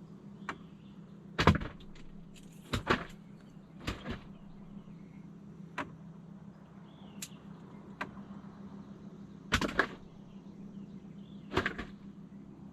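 Steady low hum with scattered sharp knocks and clicks of fishing gear and handling on a boat, about nine in all at irregular spacing, the loudest about a second and a half in and again near ten seconds.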